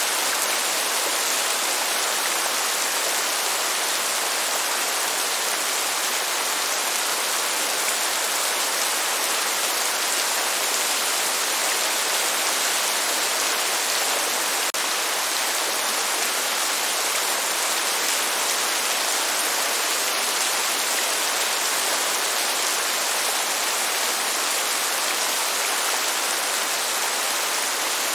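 Steady, even rain, falling in a constant hiss without any thunder, with one faint tick about halfway through.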